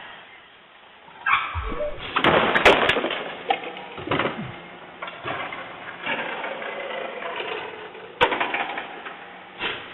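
Garbage truck machinery clanking and clattering in an irregular run of knocks, with a single sharp bang about eight seconds in.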